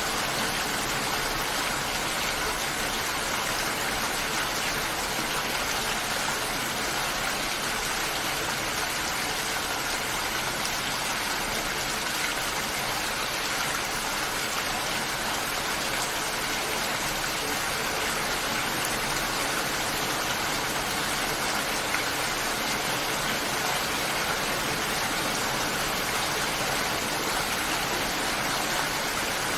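Steady, even rainfall with no breaks or single drops standing out.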